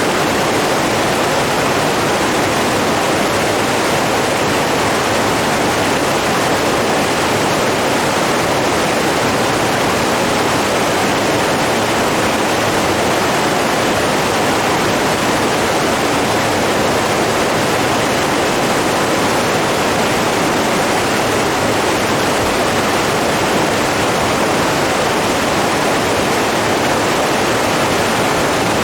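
Running water rushing steadily, a dense even noise without breaks.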